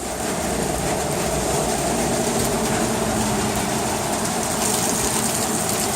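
Heavy rain pouring down in a thunderstorm, a steady downpour with a low, continuous rumble under it.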